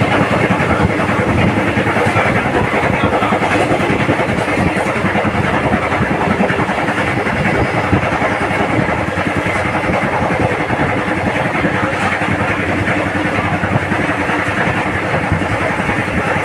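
Passenger train coach running at speed: a loud, steady rumble and rattle of wheels on the rails, heard at an open coach doorway.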